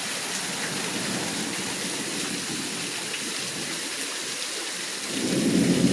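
Heavy rain pouring down in a steady hiss. About five seconds in it swells briefly into a louder, lower rush.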